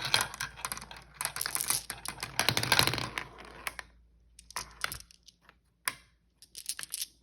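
Marbles rolling and clattering along a marble-run track, a dense run of rapid clicks that thins to scattered single clacks after about four seconds.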